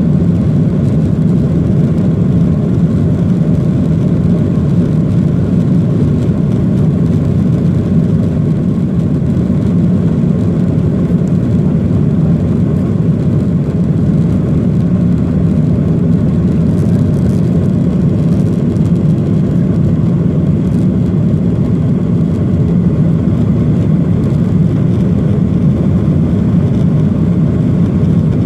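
Cabin noise of a Boeing 737-800 during takeoff: its CFM56-7B jet engines at high thrust and the rushing air make a loud, steady, low rumble that does not change.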